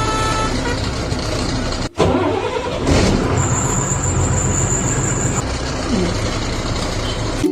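Vehicle engine sound effect running steadily, with a brief drop-out about two seconds in and a thin, high steady tone for about two seconds in the middle.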